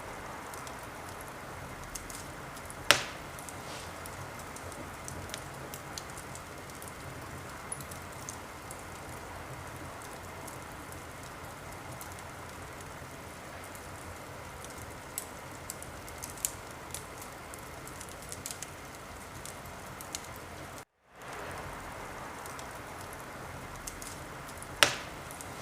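Wood fire crackling in a fireplace: a steady hiss scattered with small crackles, and a sharp pop about three seconds in and again near the end. The sound cuts out for an instant about twenty seconds in, then the same crackling starts over.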